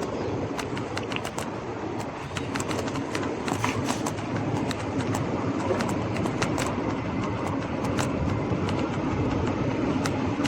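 Scott Scale Gravel 10 gravel bike rolling over a rough street surface: steady tyre noise with many sharp rattling clicks from the bike as it bumps along.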